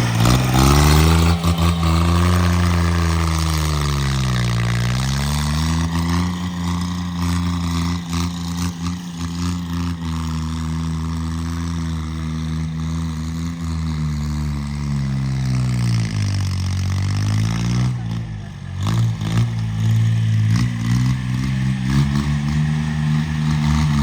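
Engine of a homemade 26 hp tractor running steadily. Its speed drops and picks back up about four seconds in, and again near the two-thirds mark.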